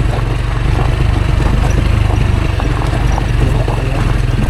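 Rieju Aventura 125 single-cylinder four-stroke engine running steadily while riding a rough dirt track, with frequent short knocks and rattles throughout.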